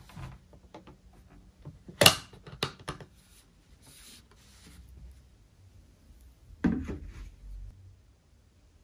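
Objects being handled: a sharp knock about two seconds in followed by a few lighter clicks, some rubbing, and another knock near seven seconds.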